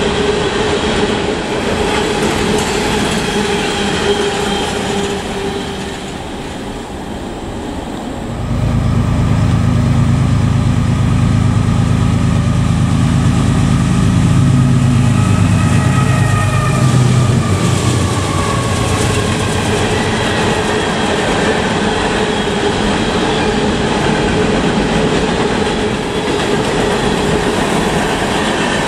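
Norfolk Southern freight trains rolling past on welded track: hopper cars rumbling by with thin high tones from the wheels, then about eight seconds in a diesel locomotive's engine comes in loudly and runs for about ten seconds as the lead units pass, followed again by hopper cars rolling by with faint high wheel whine.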